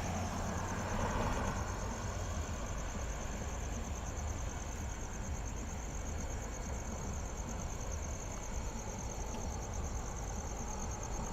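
Crickets chirping in a steady high trill over a low, steady rumble of road traffic.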